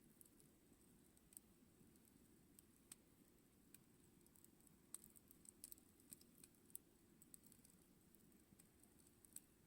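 Campfire crackling faintly: scattered sharp pops and ticks, a few each second at most, over a soft low rush of the burning fire.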